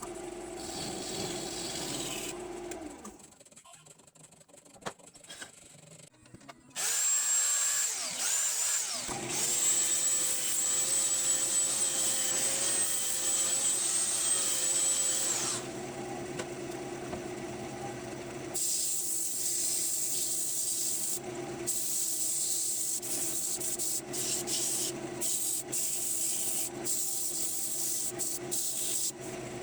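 Wood lathe spinning a maple bowl while it is worked. About seven seconds in the motor starts up, its pitch rising for a couple of seconds before it holds steady. In the last third a rubbing hiss of sanding on the spinning wood comes in, broken by short gaps.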